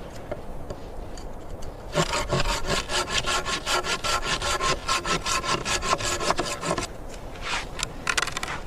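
Hand saw cutting through wood in quick, even back-and-forth strokes. The strokes start about two seconds in, stop a little before the end, and pick up again with a few more strokes near the end.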